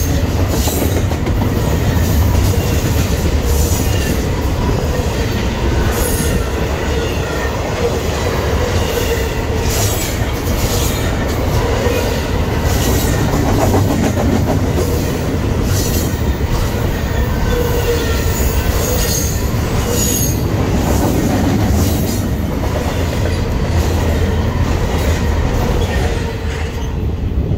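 A Norfolk Southern train rolling past on the mainline, railcar wheels clicking over rail joints with thin, high wheel squeal coming and going over a steady rumble. The noise eases near the end as the train clears.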